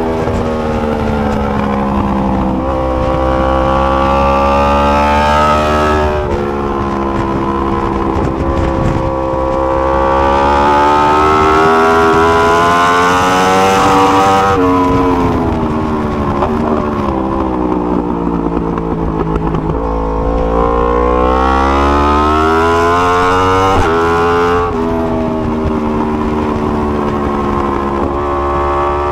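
2020 Yamaha R1M's crossplane inline-four engine on board at speed, revving up hard through the gears with a sharp drop in pitch at each upshift, over wind rush. Partway through, the pitch falls steadily for several seconds as the bike slows, then climbs again.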